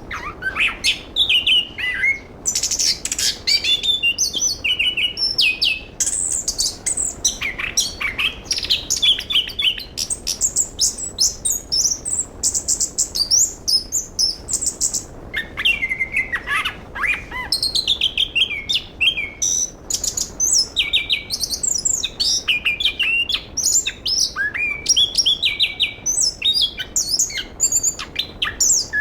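Chestnut-capped thrush (anis kembang) singing a long, fast, varied song of high whistled phrases and rapid trills, with only short breaks. The song thins out for a few seconds around the middle.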